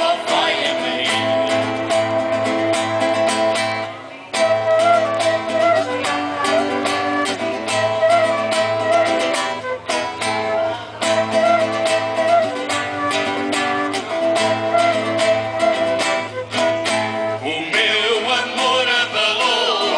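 Live band music: plucked and strummed guitar over held notes in a steady rhythm, with singing coming in briefly at the start and again near the end.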